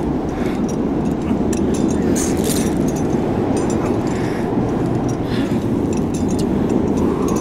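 Blizzard wind blowing steadily and loudly, with short higher crackles and hisses scattered through it.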